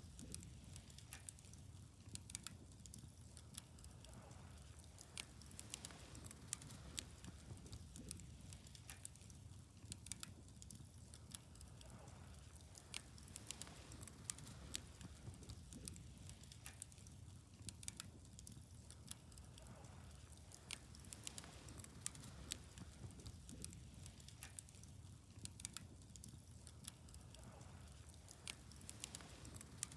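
Wood fire burning, quietly crackling with irregular sharp pops and snaps over a low steady rumble.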